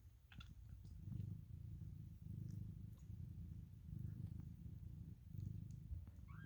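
Domestic cat purring, a low rumble that swells and fades in a regular rhythm with its breathing. A short high mew, rising then falling, comes right at the end.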